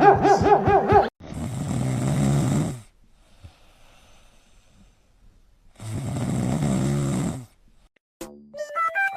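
A pet snoring: two long snoring breaths, each about a second and a half, with a pause of about three seconds between them. A snatch of music plays at the start and again near the end.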